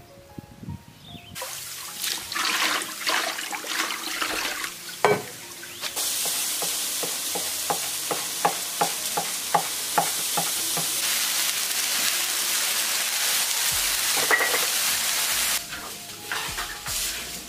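Food sizzling as it fries in a wok: a dense hiss that starts suddenly about a third of the way in and cuts off near the end. A cleaver chops on a wooden board, about three even chops a second, partway through. Soft background music underneath.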